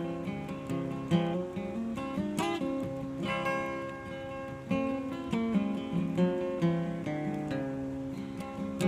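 Acoustic guitar played solo in an instrumental break, strummed chords mixed with picked single notes and bass runs.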